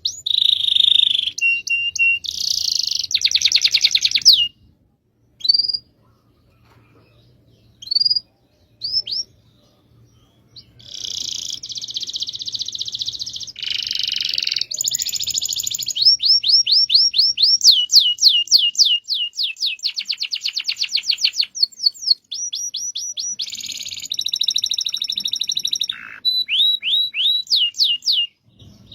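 Domestic canary singing in long rolling trills and runs of quick down-sweeping notes. After about four seconds the song breaks off for several seconds, with only a few single notes, then picks up again in continuous phrases.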